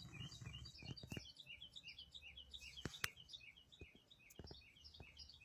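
Faint bird chirping: quick high chirps, a few each second, repeated steadily, with a few soft taps in between.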